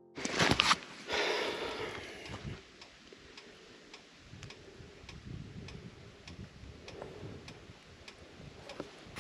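A loud sudden clatter and scrape as a Honda CT125 motorcycle goes down on gravel, dying away over a couple of seconds. Then a steady ticking, about two ticks a second, with faint breathing.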